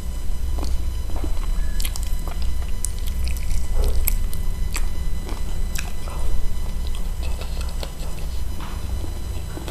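Close-miked chewing and biting on spicy braised chicken feet, with irregular sharp clicks over a steady low hum.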